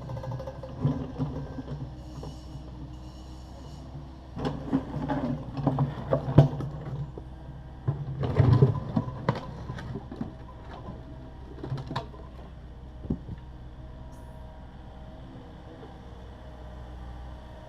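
Takeuchi TB260 excavator's diesel engine running steadily, with irregular clanks, knocks and scraping from the bucket working broken concrete, loudest in two bunches around the middle.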